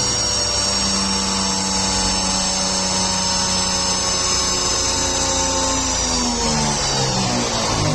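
Alfa Romeo Giulietta 2.0 JTD four-cylinder turbodiesel engine held at high revs with a high-pitched whine over the engine note. In the last two seconds the revs fall away steadily.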